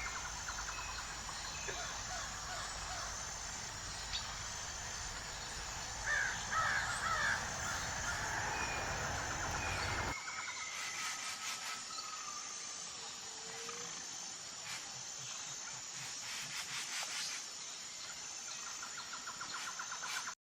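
Wild birds calling over outdoor ambience, with a cluster of harsh calls about six to seven seconds in. The background changes abruptly about ten seconds in, and fainter calls follow.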